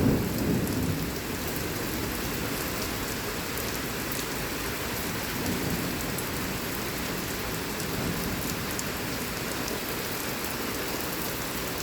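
Heavy thunderstorm rain pouring down in a steady hiss, with the rumble of a close thunderclap dying away in the first second.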